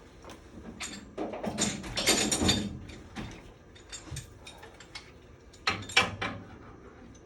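Mechanical handling noise: a burst of rattling and clicking about a second in, a few separate clicks, then a shorter loud clatter near the end.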